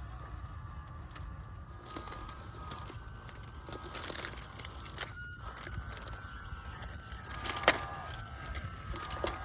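Small RC crawler's 370 brushed motor and metal gear drivetrain whining at a near-steady, slightly wavering pitch while the truck crawls, with scattered crackles and clicks from the tyres and chassis working over rough ground, one sharp click about three-quarters of the way through.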